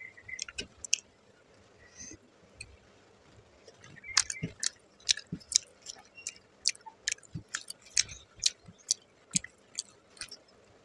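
A person chewing a mouthful of rice and fish curry: wet mouth clicks and smacks, sparse at first and then about two a second from about four seconds in.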